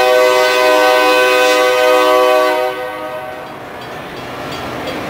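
Train's locomotive horn sounding one loud, steady chord that stops about two and a half seconds in, followed by the rumble of the train rolling along the tracks, slowly getting louder.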